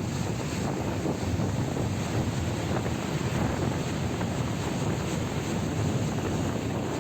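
Steady wind rushing over the microphone of a motorcycle riding through city streets.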